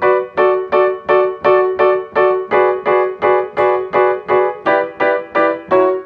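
Instrumental song intro: one piano chord struck repeatedly at an even pulse, about two and a half times a second, each strike fading before the next.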